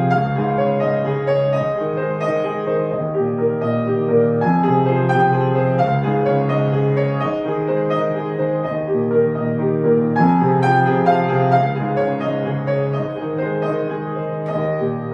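Piano music: a melody over held low chords, with new phrases entering about every six seconds.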